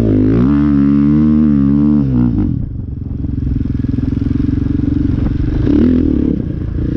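Dirt bike engine running under throttle. The engine note climbs and wavers for the first couple of seconds, drops to a steady lower note, then briefly rises and falls again near the end.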